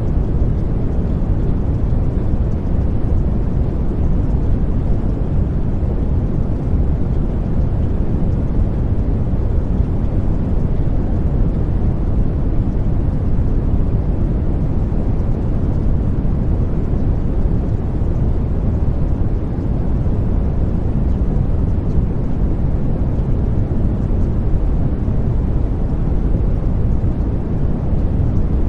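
Steady, deep noise with no distinct tones or events, its energy mostly low down: a masking noise track of the kind laid over subliminal affirmations.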